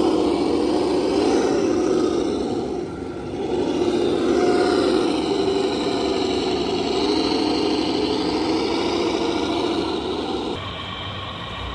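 A radio-controlled model construction truck running, its engine sound wavering up and down in pitch as the throttle changes. It dips briefly about three seconds in, and the sound changes abruptly to a quieter one near the end.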